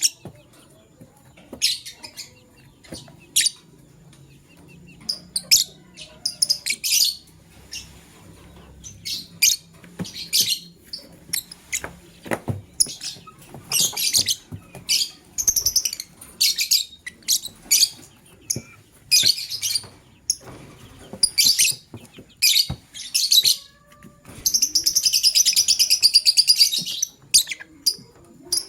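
Lovebirds chirping in short, high, irregular calls, with a longer run of rapid chattering near the end.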